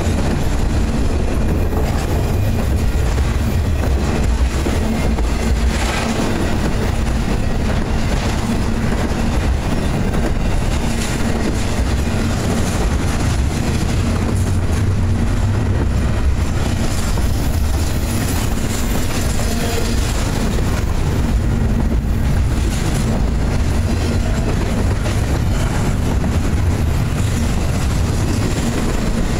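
Double-stack and trailer-on-flatcar freight cars of an intermodal train rolling past close by: a steady, loud rumble and rattle of steel wheels on rail, with occasional clacks as wheels cross rail joints.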